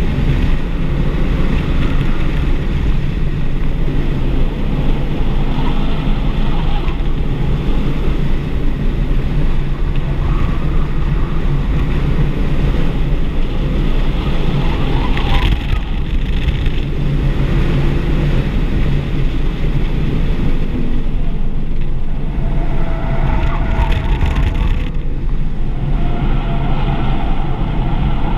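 A stock 2024 Audi RS3's turbocharged five-cylinder engine running hard at track speed, heard from inside the cabin with heavy road and wind noise. There is a brief lull about halfway through.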